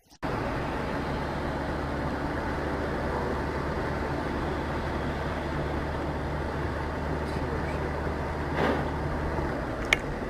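Steady engine and road noise of a vehicle on the move, with a low, even engine hum. A short sharp click sounds near the end.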